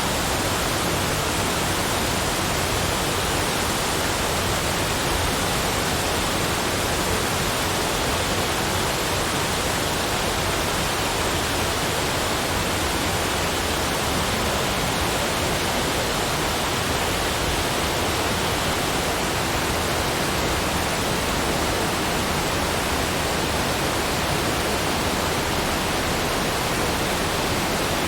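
Steady, unchanging rushing noise spread evenly from deep to high pitches, with no separate events.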